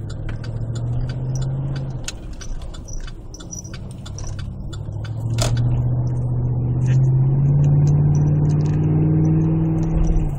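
2008 Chevy Tahoe V8 exhaust through an aftermarket Magnaflow muffler, with a deep note as the engine is brought up on the throttle: a short rise, then a longer, louder pull whose pitch climbs and holds before cutting off near the end. A single sharp click sounds about halfway through.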